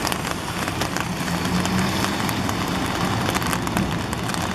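Steady rain, with many drops ticking sharply on surfaces close to the microphone, over a low rumble.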